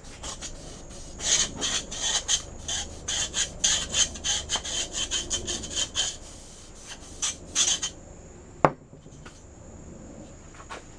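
Scraping of a Brillo steel-wool pad scrubbed back and forth along a WD-40-wetted sunroof track, in quick rhythmic strokes that ease off about eight seconds in. A single sharp knock follows.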